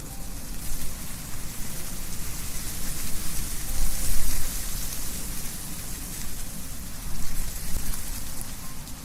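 Wind blowing through trees, leaves rustling with a low rumble beneath, swelling in gusts about four seconds in and again near the end.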